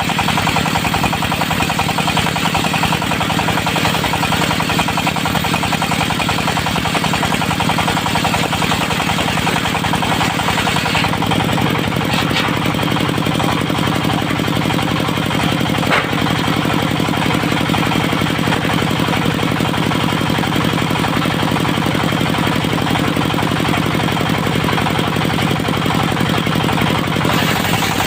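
Diesel engine of a portable circular sawmill running steadily under load, with a hard, knocking rhythm. The higher hiss in the sound thins out about eleven seconds in and comes back near the end.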